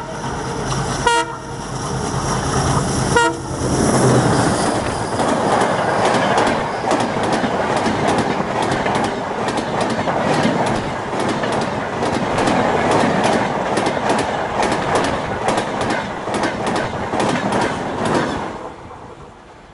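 An ALCO WDM-3D diesel locomotive gives two short horn blasts in the first few seconds, its engine running, as it passes at about 105 km/h. Then the express coaches rush by with a rapid clickety-clack of wheels over rail joints, which dies away sharply near the end.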